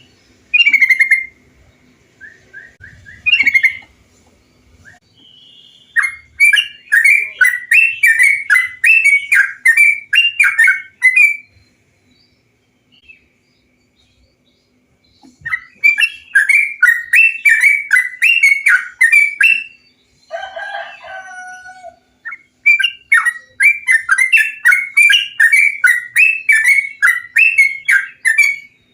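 Bulbul song (trucukan, the yellow-vented bulbul type) played as a lure call: long bouts of quick, bubbly, repeated notes, about two or three a second, with short pauses between bouts. A brief lower, drawn-out call sounds about two-thirds of the way through.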